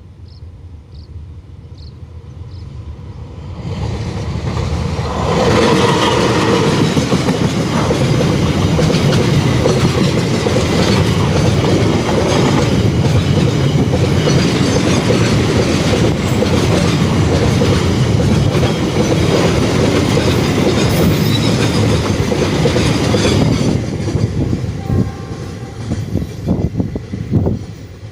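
Fast diesel train passing, its rush of wheels and engine building over the first five seconds, staying loud for about eighteen seconds, then fading, with a few sharp clacks near the end.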